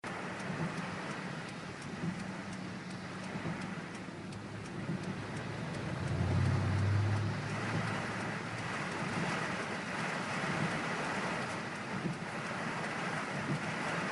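Torrential rain drumming steadily on a moving car, heard from inside, over the low hum of the vehicle. A louder low rumble swells about six seconds in and fades after a second or so.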